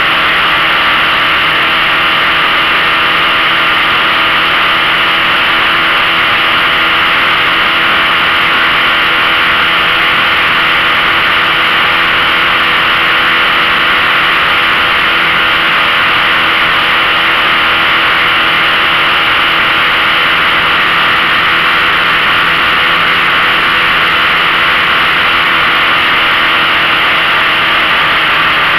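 A 15 hp outboard motor running steadily at one speed, with a broad hiss of water and wind over the engine tone.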